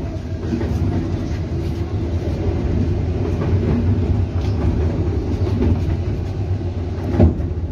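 EP2D electric multiple unit running at speed, heard from inside the passenger car: a steady low rumble of wheels on rails and running gear. A single sharper thump comes near the end.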